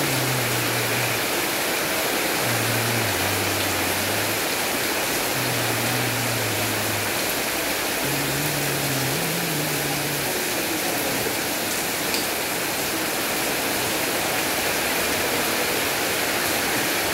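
Heavy rain falling on tarpaulin awnings and a wet market street, with water pouring in streams off the awning edges: a steady, even hiss. A low wavering tone comes and goes in the first half.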